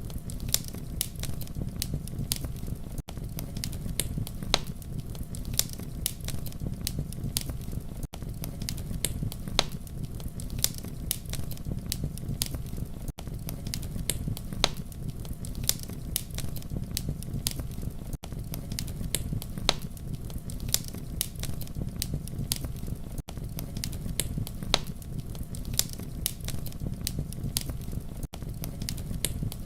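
Campfire crackling: a steady low rumble of burning with many sharp pops and snaps scattered throughout. There is a brief dip in level about every five seconds.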